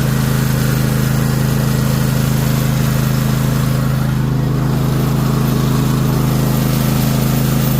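Toro TimeCutter MyRide zero-turn mower's engine running steadily with one drive arm engaged. It keeps running instead of cutting out because a test light carries battery power straight to the safety switch, bypassing a bad tan wire.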